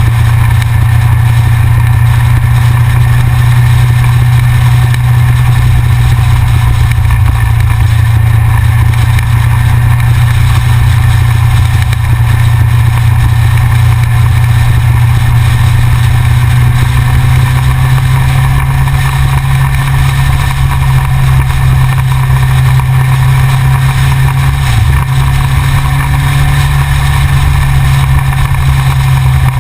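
Yamaha XJR motorcycle's inline-four engine running steadily while riding, loud and close. In the second half, fainter engine notes rise and fall behind it.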